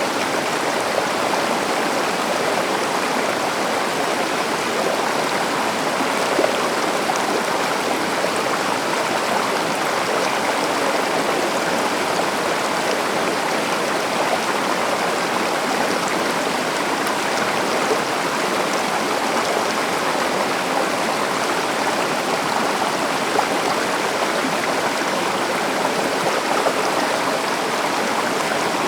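Stream or small river flowing and splashing over rocks, a steady rushing of water with no let-up.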